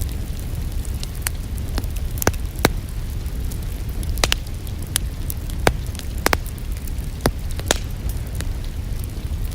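Wood fire burning in a fireplace: a steady low rumble of flames with sharp crackles and pops at irregular intervals, about ten of them.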